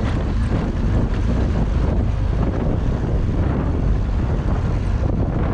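Steady wind buffeting on the microphone of a BMW R1200GS Adventure motorcycle on the move, a dense low rumble with no letup.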